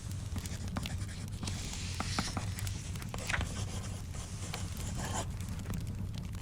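Pen scratching across paper in short writing strokes, stopping about five seconds in, over scattered small crackling clicks and a steady low hum.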